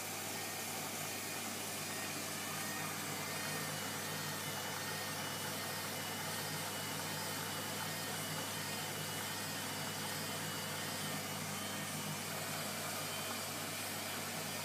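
Blomberg washing machine running with an even, steady hum.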